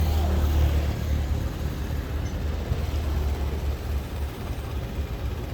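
Steady low engine rumble, heaviest in the first two seconds or so, over a faint hiss.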